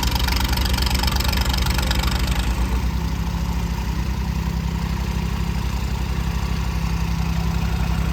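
Tractor diesel engine running steadily close by, with a low, even pulsing beat; the higher rattle and hiss above it fade out about two and a half seconds in.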